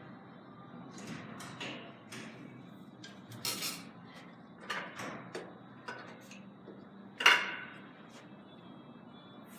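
Carom billiard balls in play during a three-cushion game: a string of separate sharp clicks and knocks as the balls strike each other and the cushions, the loudest click about seven seconds in.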